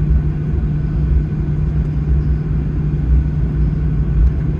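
Steady low rumble heard inside the cabin of a Boeing 737-800 taxiing to the gate, its CFM56-7B engines at idle, with an even hum underneath.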